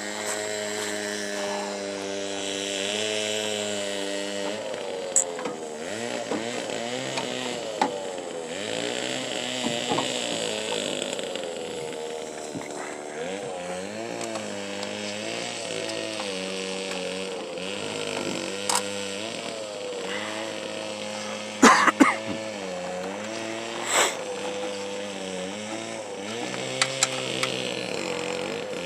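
An engine running steadily, its pitch drifting up and down every few seconds, with a few sharp knocks over it in the second half.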